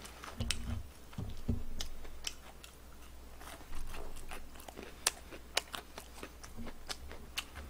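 A person chewing and biting fried chicken, with many short sharp clicks scattered through the chewing and a couple of soft low thuds about half a second and a second and a half in.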